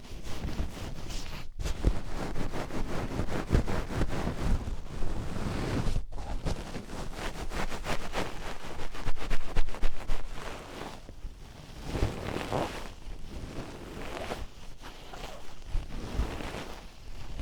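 Oiled hands rubbing and massaging close against a 3Dio binaural microphone, making a dense, slippery rubbing noise that swells and fades. There are two brief dropouts, about one and a half seconds in and about six seconds in.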